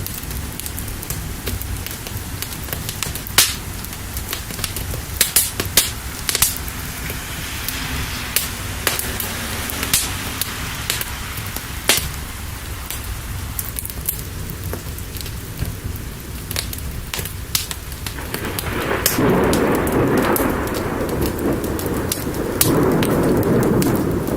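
Rain falling with a crackling fire, whose sharp pops are scattered throughout. A long roll of thunder swells up about eighteen seconds in and carries on to the end.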